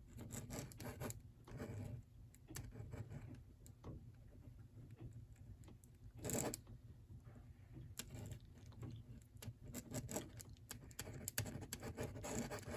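A drawing tool scratching and rubbing on paper in short, irregular strokes, with one louder stroke about six seconds in.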